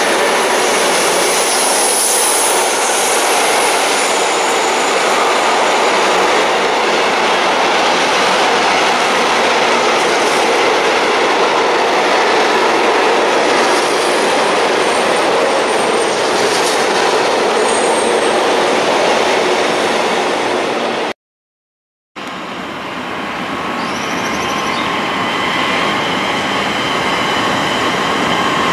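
A train passing at speed, a steady loud rush of wheels on rail with faint high squeals. It cuts off abruptly about 21 seconds in. After a brief silence, a locomotive hauling tank wagons rolls past with steady rail noise and thin wheel squeals.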